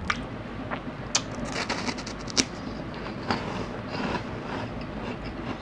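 Crunchy puffed corn stick snack being chewed close to the microphone: irregular crisp crunches and clicks.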